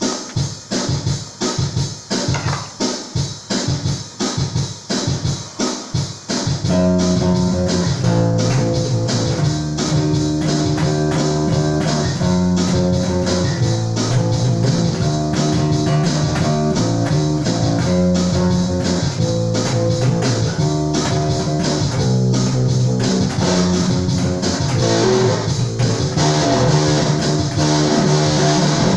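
Bass guitar played as a solo: plucked notes, about two a second, for the first six seconds. Then fuller accompaniment with held chords comes in under the bass and keeps going.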